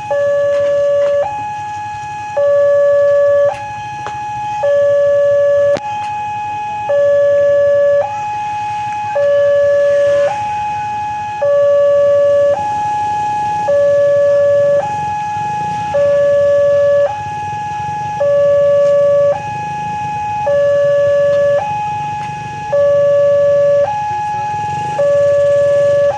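Electronic two-tone warning siren alternating steadily between a low and a high tone, each held a little over a second, repeating without a break.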